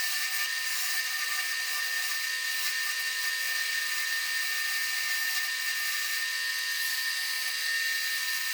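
Wood lathe running steadily at speed with a high, even whine while spinning a red oak bowl blank.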